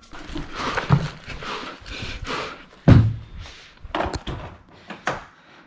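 A loud thud about three seconds in, among shuffling and rustling noises.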